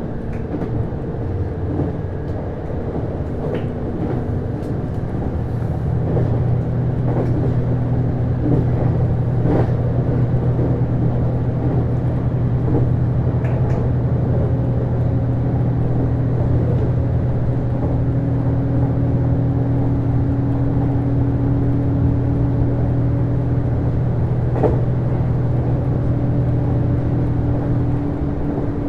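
Interior running sound of a JR East HB-E210 series hybrid railcar under way, with its Komatsu DMF15HZB-G diesel engine and Hitachi IGBT-VVVF traction drive. A steady low drone gets louder about six seconds in and drops back near the end, while fainter tones climb in steps, with occasional short clicks.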